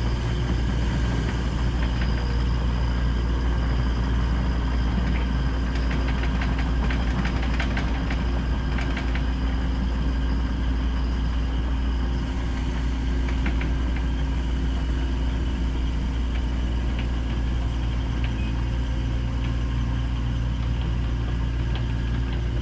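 Engine running steadily at an even speed, with a few light rattles or clicks a quarter of the way in.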